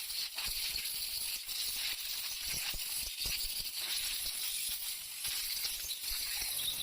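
A steady high hiss with faint scattered clicks and knocks.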